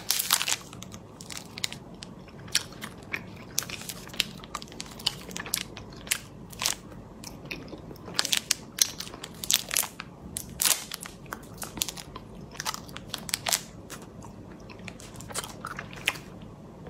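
Close-up crunchy chewing of a small snack ball: a bite just after the start, then irregular sharp crunches as it is chewed with the mouth closed.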